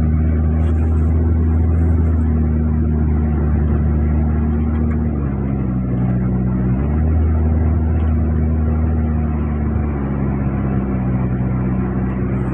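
Kia Picanto's small petrol engine running steadily, its speed dipping for a moment around the middle and settling a little lower near the end.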